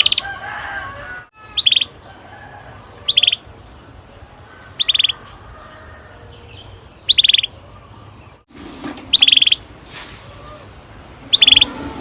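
Domestic canary giving short single chirps, six in all, spaced one and a half to two seconds apart.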